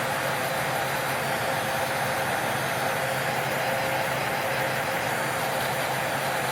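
Small electric motor running steadily with a constant whine and an even whir.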